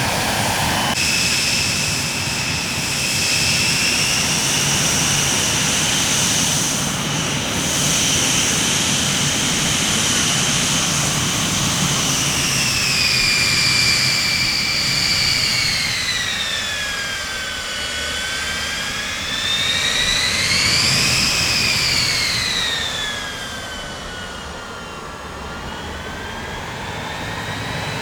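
Jet airliner engines whining steadily over a rushing roar, the high whine holding level, then sliding down in pitch, rising briefly and falling again near the end.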